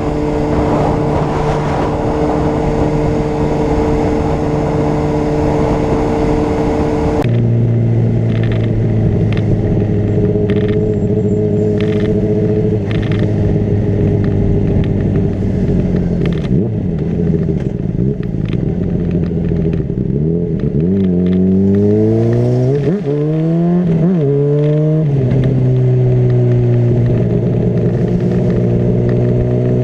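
Honda CBR600RR's inline-four engine under way on the road, first at a steady pitch with wind noise, then its note falling as it slows. About twenty seconds in it revs up and drops back several times in quick succession, as in shifting up through the gears, then settles to a steady pitch.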